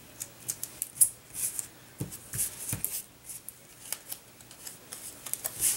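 Irregular light clicks, taps and rustles of paper and cardstock pieces being handled, as foam adhesive dimensionals are stuck on a small paper cut-out; the sharpest clicks come about a second in and just before the end.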